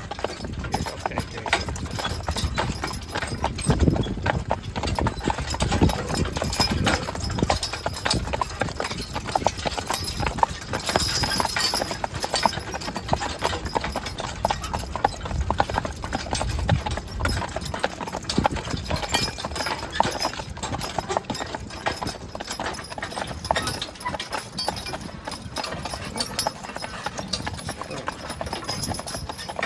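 Hooves of a pair of draft horses clip-clopping steadily as they are driven in harness.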